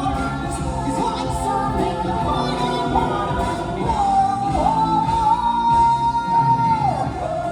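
Stage-musical song: a singer carries the melody over band backing, holding one long note for a few seconds before it falls away near the end.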